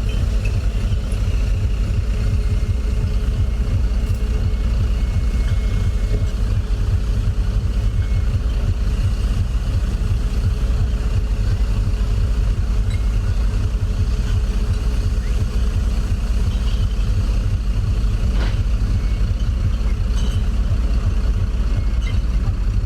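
Steady low engine rumble of city traffic, with a faint steady tone over it for the first few seconds.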